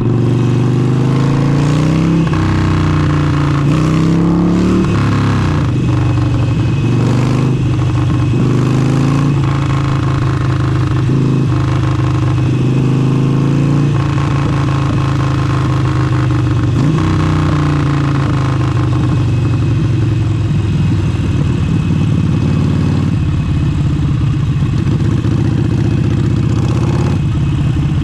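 Harley-Davidson Forty-Eight's air-cooled V-twin through an aftermarket exhaust, under way: the engine climbs in pitch for the first few seconds, drops, then rises and falls several more times before running at a steadier speed.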